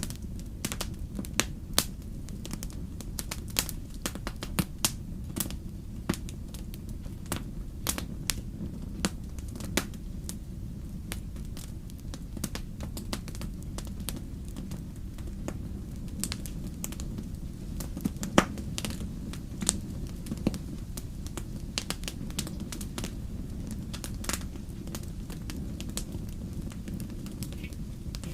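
Wood fire crackling: a steady low rumble with irregular sharp pops and snaps, one louder pop about two-thirds of the way through.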